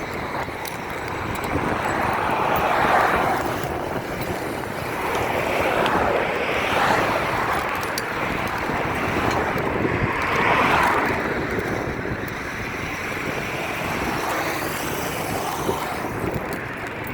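Wind noise on the microphone while riding a bicycle, with road traffic passing; three vehicles swell up and fade away about three, seven and ten seconds in.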